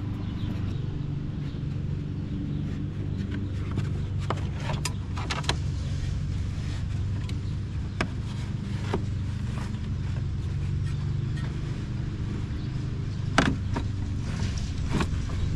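A steady low engine-like hum runs under scattered light clicks and knocks from fitting the felt wheel-arch liner back onto the car, with a sharper knock near the end.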